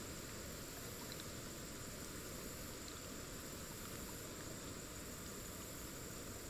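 Faint, steady outdoor river ambience: an even hiss of running water with a continuous high-pitched insect drone over it.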